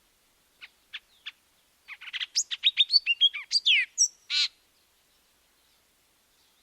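A songbird singing one song: three short separate notes, then a fast, jumbled run of varied chirps and down-slurred whistles that ends about four and a half seconds in.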